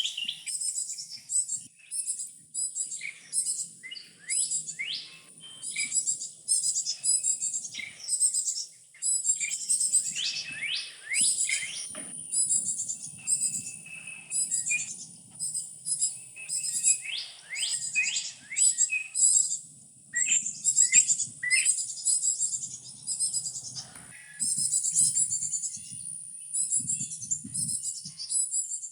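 Fledgling Carolina chickadees chittering: a constant, overlapping stream of rapid high chips and short falling notes.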